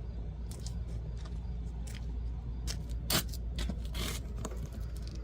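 A steady low mechanical hum runs underneath scattered scraping and clicking, with a sharp click about three seconds in and a longer scrape about a second later.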